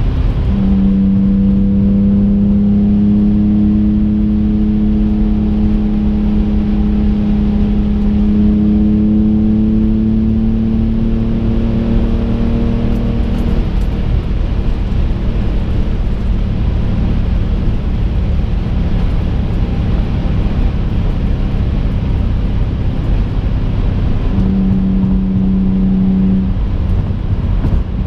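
Twin-turbo 2005 Infiniti G35 coupe's 3.5-litre V6 heard from inside the cabin over heavy road rumble while driving. A strong engine drone climbs slowly in pitch for about thirteen seconds under steady acceleration, fades into the road noise, then comes back briefly near the end.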